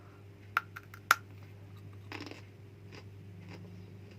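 Close-up eating sounds: two sharp crunches about half a second apart, the second the loudest, then a longer stretch of chewing a little after two seconds in.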